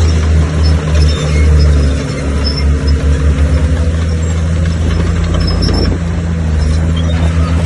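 Bulldozer's diesel engine running with a deep, pulsing note, which shifts and eases slightly about two seconds in.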